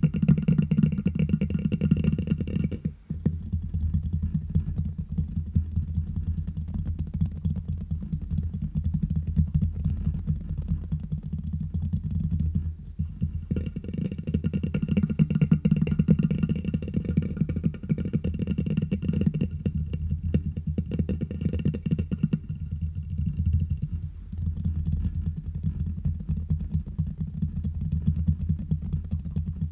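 Fast tapping and scratching directly on a microphone: a dense, rapid stream of muffled, bassy taps with short breaks about three seconds in and again around thirteen and twenty-three seconds.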